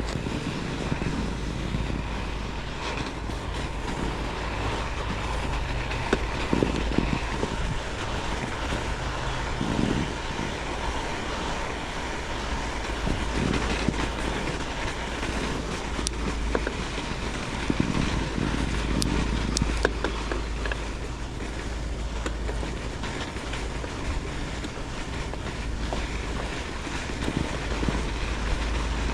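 Steady wind rumble on the microphone over an even rushing noise of movement, with a few soft thumps.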